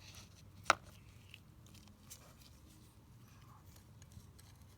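Small carburetor parts being handled: one sharp metallic click, with a short ring, a little under a second in, then faint small clicks and taps.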